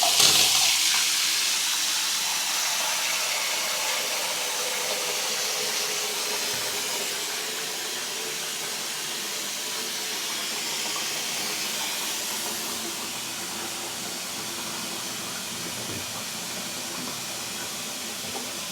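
Water running hard from a newly plumbed tap into a basin, a steady hiss that starts suddenly and eases slightly as it goes on. It is the first water through the new pipework, turned on to test for leaks.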